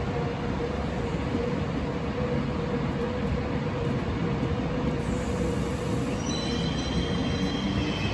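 Train running: a steady rumble with a steady hum. Music begins to fade in near the end.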